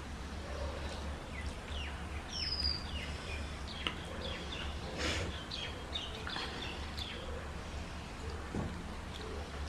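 Small birds chirping in quick short notes, with one high falling whistle a couple of seconds in. Under them are faint sounds of people eating rice and curry by hand from steel plates.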